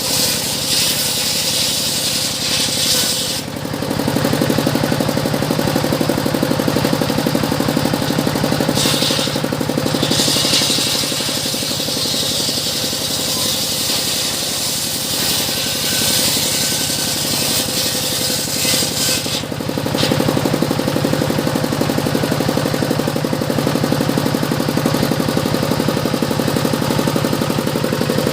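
Sawmill circular saw (gergaji piringan) running steadily while sawing teak. A high hiss of the blade cutting lasts through the first few seconds and again from about nine to about nineteen seconds in. Between cuts the saw's drive hums on its own.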